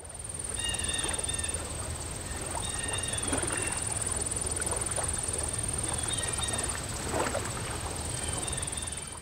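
Outdoor nature ambience: birds give short calls a few times over a steady high-pitched buzz and a low rumble.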